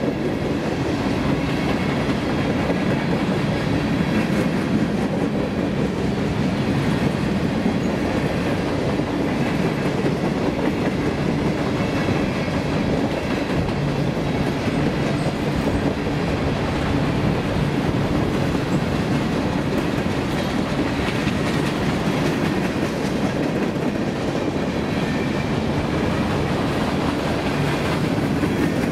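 Covered hopper cars of a freight train rolling steadily past, their steel wheels running on the rails in an even rumble.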